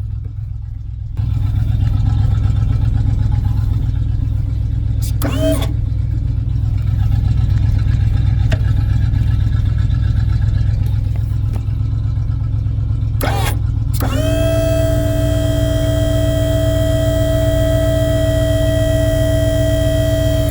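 1984 tow truck's engine running steadily, picking up speed about a second in. Two short whines sound, then from about two thirds of the way through a steady high-pitched whine that rises quickly at its onset and holds, typical of the truck's hydraulic pump working under load; the owner suspects the hydraulics may be low on fluid.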